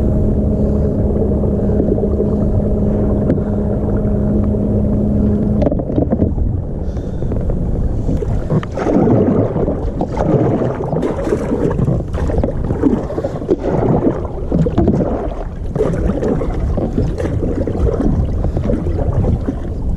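Kayak moving on open water with wind buffeting the microphone and water sloshing. A steady hum runs through the first part and cuts off suddenly about six seconds in, followed by uneven gusts and splashing.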